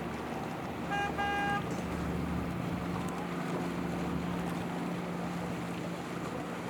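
A motorboat's engine running steadily as the boat moves through the channel, with wind and water noise. Two short, high beeps sound about a second in.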